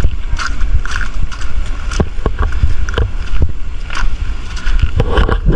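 Strong wind buffeting the microphone: a heavy low rumble with scattered sharp knocks.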